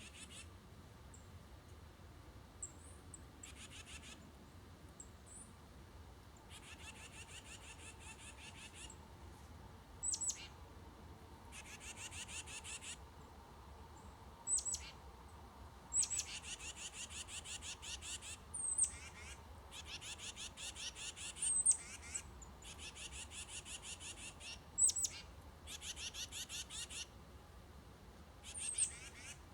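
Songbirds at the feeders: a dry trill of rapidly repeated high notes sung over and over, each lasting about two seconds, with single sharp high chip notes between the trills.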